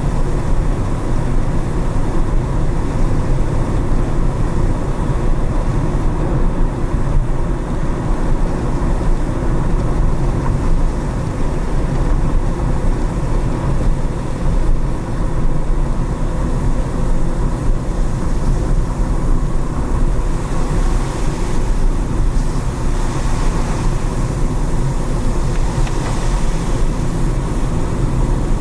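Car driving on wet city streets: a steady rumble of road and engine noise, with a brighter tyre hiss for several seconds about twenty seconds in.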